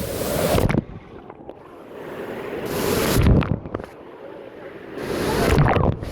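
Wave-pool water surging and splashing around the phone's microphone, in three swells about two and a half seconds apart that each build and then cut off suddenly.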